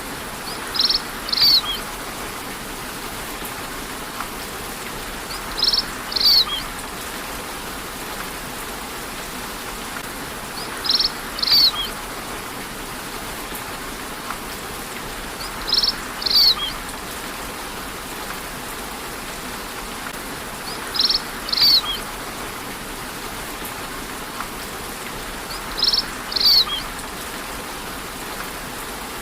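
Steady rainfall with a bird calling over it: a pair of quick high chirps repeated at even intervals about every five seconds, six times.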